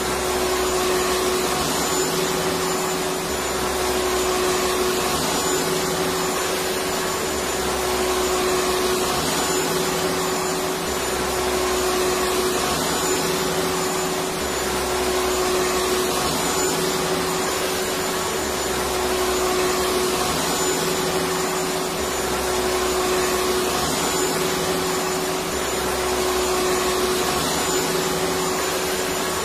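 Electric vacuum cleaner motor running steadily, a dense whooshing drone with a steady hum and a low rumble that swells and eases every few seconds.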